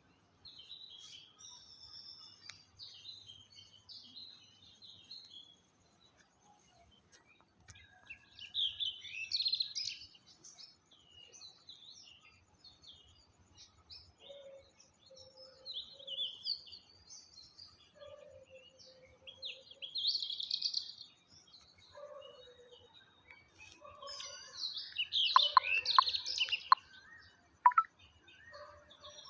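Birds chirping and twittering in irregular bouts of quick high notes, with some lower calls mixed in. The loudest bout comes near the end.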